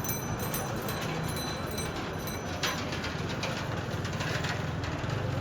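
Sea-beach ambience: a steady wash of noise with scattered small clicks, one sharper click about halfway through, and a low hum that grows near the end.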